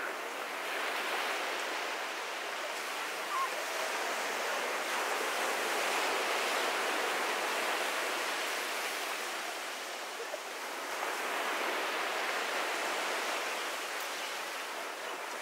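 Ocean surf washing onto a beach: a steady hiss of breaking waves that swells about a second in, eases near ten seconds and builds again with the next wave.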